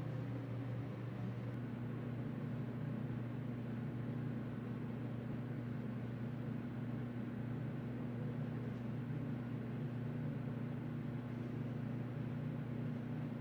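Steady low mechanical hum made of a few fixed low tones, with one more tone joining about a second and a half in.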